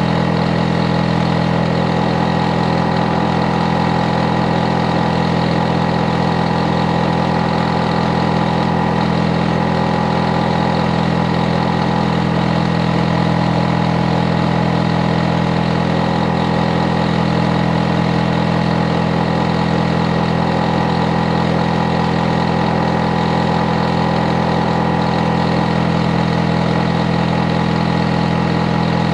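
Hitachi air conditioner outdoor unit running steadily and overly hard ("too energetic"): a deep, unchanging hum made of several held tones, with a fainter steady whine higher up.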